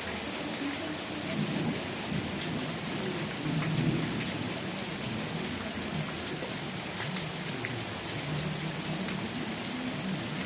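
Steady rain falling, with scattered sharp drips and an uneven low rumble of thunder underneath.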